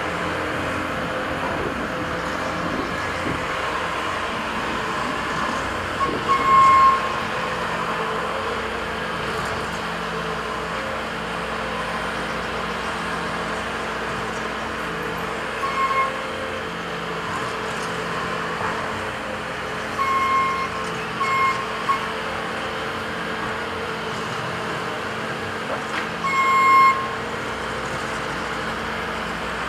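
Construction machinery engines running steadily under load, with a few short high beeps sounding at irregular moments, the longest and loudest near the end.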